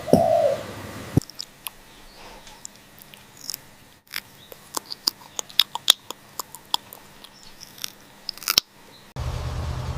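A parrot's beak biting and crunching: a run of sharp, irregular clicks and cracks, after the tail of a short call in the first half second.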